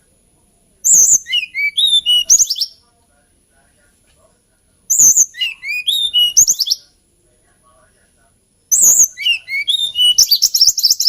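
Hill blue flycatcher singing: three similar song phrases about four seconds apart. Each starts high, slides down through a few warbled notes, then ends in a quick run of repeated notes.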